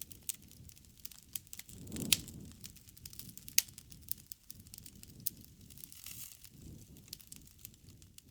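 Wood campfire burning: sharp crackles and pops over a low rumble of flames, with the loudest pops about two seconds in and again about three and a half seconds in.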